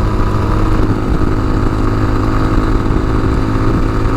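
Tao Motor TBR7 dual-sport motorcycle engine running steadily under way at a constant speed, with its even engine note over road and wind noise.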